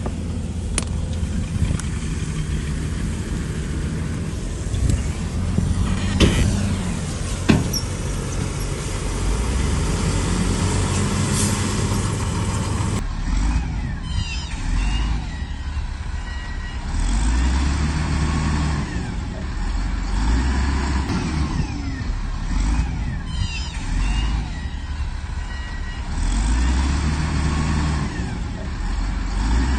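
Heavy diesel earthmoving machine working, its engine running loud and low. About a third of the way in the sound changes abruptly. From then on the engine swells and eases every few seconds as it takes load, with short metallic squeaks and clanks.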